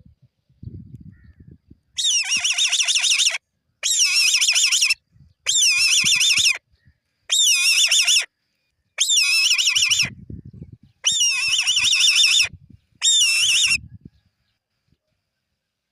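An eagle calling: seven high, quavering, whinny-like calls, each lasting about a second or a little more, starting about two seconds in and following one another every second and a half or so.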